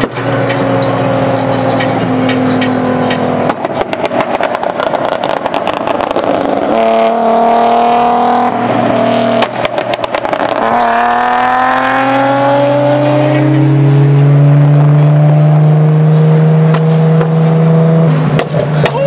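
Nissan 370Z V6 engine and exhaust under hard acceleration, heard from inside a car cabin. The pitch climbs, drops at a gear change about nine and a half seconds in, climbs again through the next gear, then holds steady at cruising speed.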